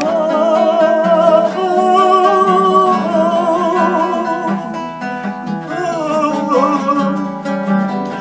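A woman singing long held notes with vibrato between lines of a song, accompanied by acoustic guitar.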